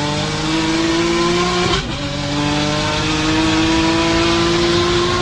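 A turbocharged Nissan 370Z's V6 engine pulling hard, its pitch climbing steadily. About two seconds in there is a brief break as it shifts up a gear, then the pitch climbs again.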